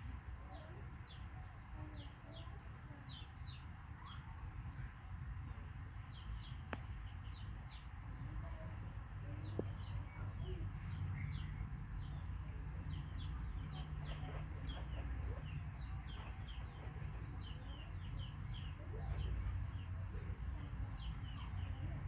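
Small birds chirping over and over in short, high calls that fall in pitch, with a low rumble underneath that grows stronger partway through.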